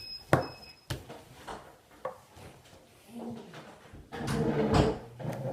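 Sharp knocks and clicks of household objects being handled, the loudest about a third of a second in, then a longer, louder stretch of clattering about four seconds in.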